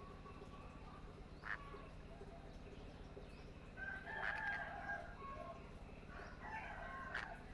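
Faint bird calls: a short sharp chirp about a second and a half in and another near the end, with held, level-pitched calls around four to five seconds and again around six and a half seconds in.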